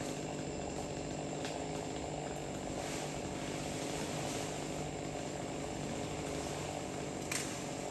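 A motor engine running steadily at an even speed, the kind of machine used on a tree-cutting job.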